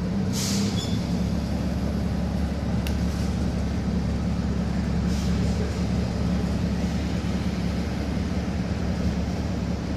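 City bus running steadily, heard from inside the cabin as a low engine drone. A short hiss of released air comes about half a second in, and a single sharp click near the three-second mark.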